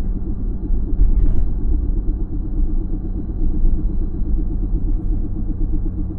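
Low droning rumble with a fast, even warble, heard inside the cabin of a 2018 Audi S3 on the move. The owner suspects a failing rear wheel bearing, though it could be the driveshaft center bearing.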